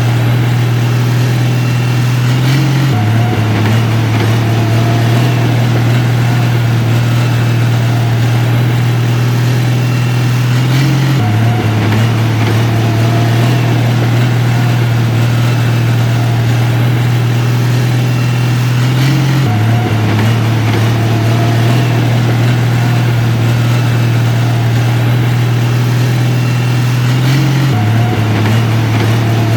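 Heavy construction-machine diesel engine running steadily, a loud low drone that shifts slightly in pitch about every eight seconds.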